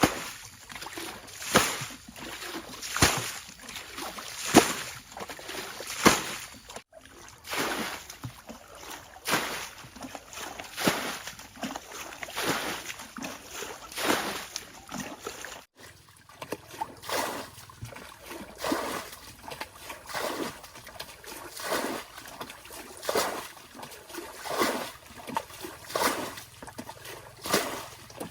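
Water splashing and sloshing in regular strokes, about one every one and a half seconds. The sound cuts off abruptly twice.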